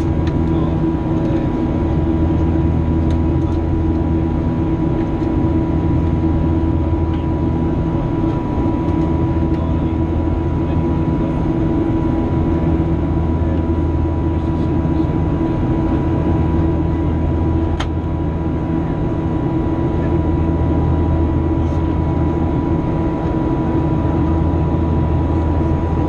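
Steady in-flight drone of a Boeing 737-800 airliner's jet engines and airflow, with a constant whine over a low hum. A single sharp click comes about two-thirds of the way through.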